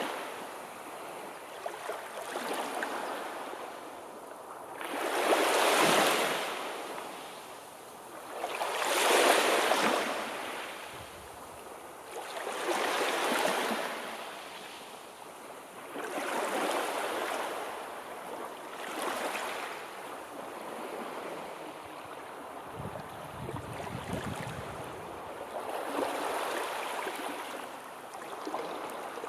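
Sea waves washing in and drawing back, a hiss that swells and fades every three to four seconds, with the biggest surges about six and nine seconds in.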